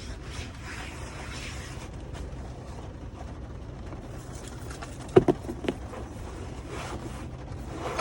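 Steady low hum and hiss inside a truck cab, with a few brief sharp sounds about five seconds in.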